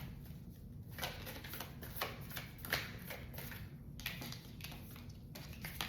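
Tarot cards being shuffled by hand: soft, irregular clicking and rustling of the deck, several flicks a second.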